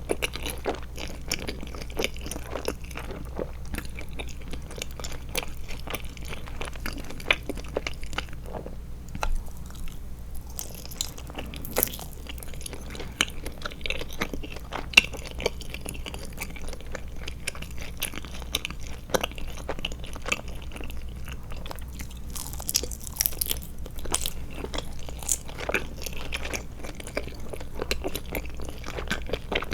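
Close-miked chewing and biting of Trolli Glotzer eyeball gummy candies: a dense run of small crunching clicks, over a faint steady low hum.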